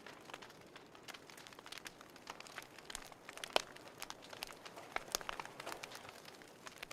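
Wood fire crackling in a fireplace: irregular sharp pops and snaps over a soft hiss, with one louder pop about three and a half seconds in.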